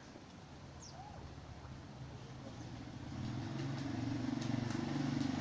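A motor vehicle's engine running, growing louder from about three seconds in as it draws closer.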